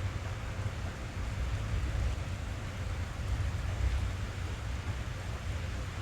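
Steady rain drumming on a car's roof and windows, heard from inside the cabin, with a deep continuous rumble under the patter.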